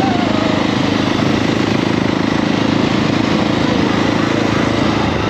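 KTM 690 SMC R's single-cylinder engine running steadily while riding, with no clear rise or fall in pitch.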